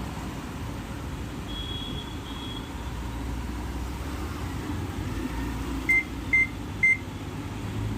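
Samsung microwave oven control board, powered up and working after repair, sounding three short, same-pitched beeps about half a second apart near the end over a steady low hum.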